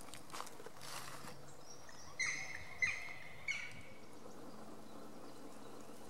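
A wild bird gives three short, loud calls about two seconds in, each starting sharply and dropping in pitch. Before them, soft rustling steps on dry leaf litter.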